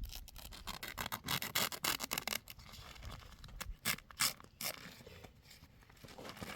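A rapid run of scraping and scratching strokes, thinning to a few louder single scrapes about four seconds in.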